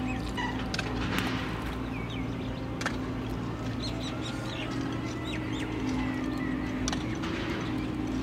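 Birds calling in short, repeated chirps over a steady low hum.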